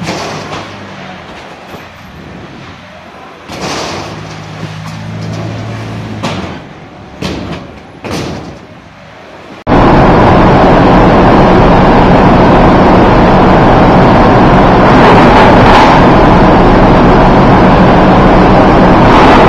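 A vehicle engine running with a hum and a few sharp knocks. About halfway in, it cuts abruptly to a much louder, steady mechanical roar with a hum underneath.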